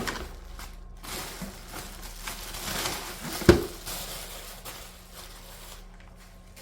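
Rustling and handling of plastic vacuum parts and packaging, with a sharp knock about three and a half seconds in.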